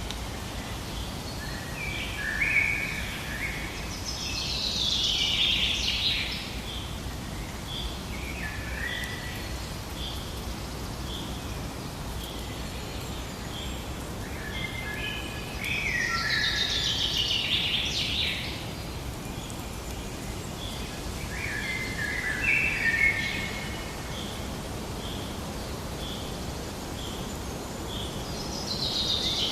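Songbirds singing: a loud descending phrase recurs about every twelve seconds, with shorter chirping phrases between. A short high note repeats evenly, about once every three-quarters of a second, through the first half, over a steady low background noise.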